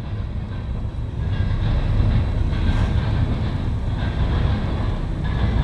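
Freight train cars, intermodal cars among them, rolling past with a steady low rumble of wheels on rail.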